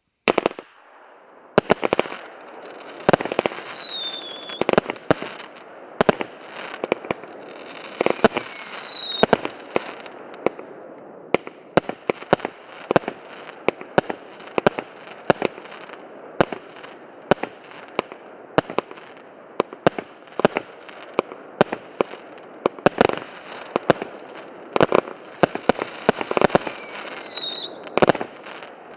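An 80-shot consumer firework cake with 1.2-inch and 0.8-inch tubes firing in rapid succession: a dense string of sharp launch pops and shell bursts over crackle. A falling whistle cuts through three times.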